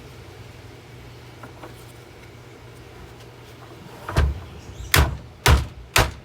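Four hard hammer blows on a Hoover bagged vacuum cleaner, about half a second apart, starting about four seconds in.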